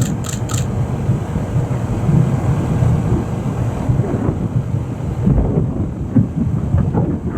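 Thunderstorm rumble and gusty wind buffeting the microphone: a loud, unsteady low rumble that swells and eases. Two short high beeps sound right at the start.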